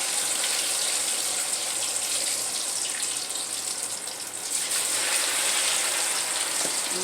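Hot water cornbread batter sizzling as it deep-fries in hot chicken grease: a steady hiss that dips briefly about four and a half seconds in, then picks up again.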